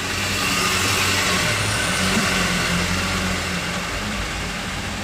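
Vehicle engine running steadily with a low, even hum, growing slightly louder over the first couple of seconds and easing off again after about three seconds.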